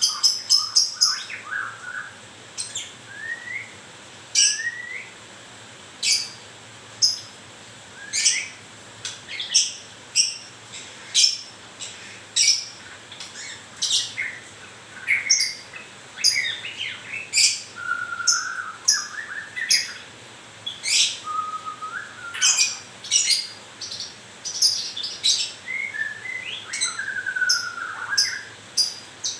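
White-rumped shama (murai batu) calling over and over: sharp, high chips about once or twice a second, broken now and then by short whistled phrases lower in pitch.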